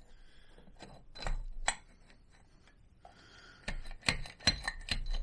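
Sharp metal clicks and clinks of a scooter's variator parts being handled and fitted back onto the engine: two a little over a second in, then a quicker run of about five near the end.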